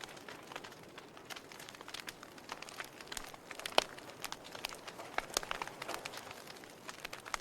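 Wood fire in a fireplace: burning logs crackling and popping irregularly over a soft hiss of flames, with one sharper pop about halfway through.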